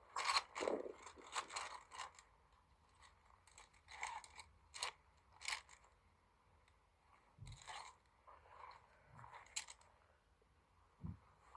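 Crinkly rustling of a tent bag and camping gear being handled and unpacked, in short irregular bursts with a couple of soft low thumps.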